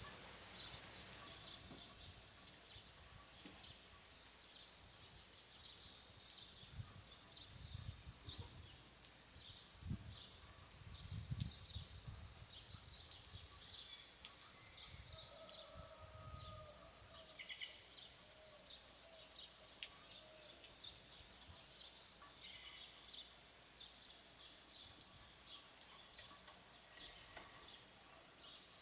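Faint countryside dawn ambience: many birds chirping over a steady soft hiss of light rain. There are a few soft low thumps around the middle.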